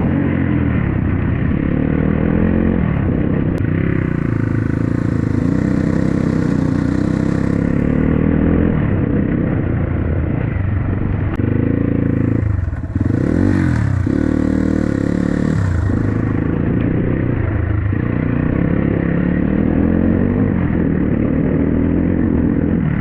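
Dirt bike engine running while riding, its pitch rising and falling with the throttle, with a short drop in revs and pick-up again about halfway through.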